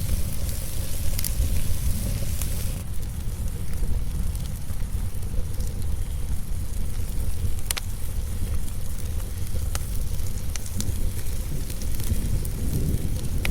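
Wood fire crackling in a fireplace, with scattered sharp pops, over a steady low rumble. A high hiss fades out about three seconds in.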